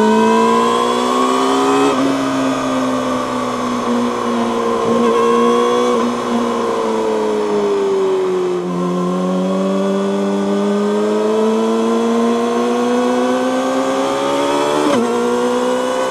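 2019 Yamaha YZF-R6's inline-four through an Akrapovic megaphone slip-on exhaust, under way on the road. The engine pulls up through the revs with a quick gear change about two seconds in, eases off with the pitch sinking in the middle, then accelerates again with another upshift shortly before the end.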